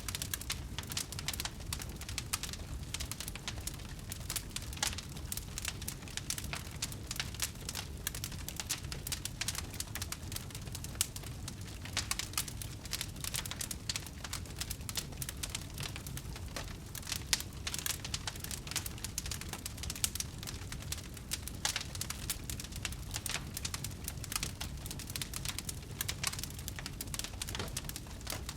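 Wood fire crackling: frequent, irregular sharp pops and snaps over a steady low rumble of the burning.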